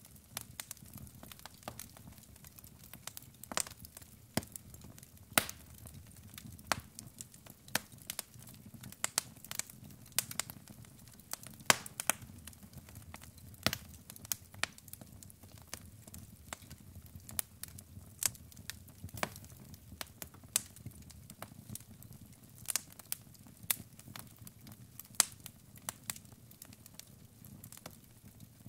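Wood fire of burning logs crackling, with sharp irregular pops scattered over a low, steady rumble of flame.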